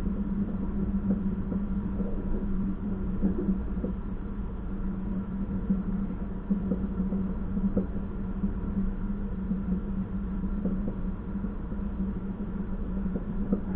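Passenger train running along the track, heard from on board: a steady low hum with scattered small knocks and rattles.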